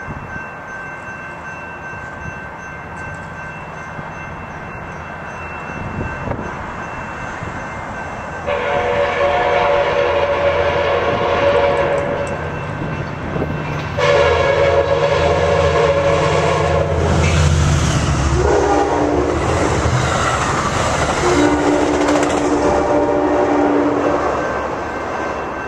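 Amtrak Pacific Surfliner passenger train led by an F59PHI diesel locomotive passing at speed, with the rumble of engine and wheels on the rails building to its loudest about two-thirds of the way in. The locomotive's horn sounds two long blasts, a short one, then a last long blast that is lower in pitch once the train has gone by.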